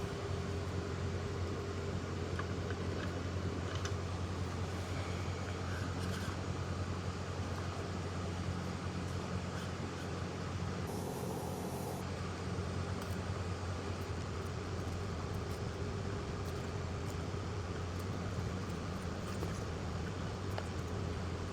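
Steady low hum, with a few faint small clicks as the fan motor's oiled rotor shaft is slowly worked into its bushing by hand.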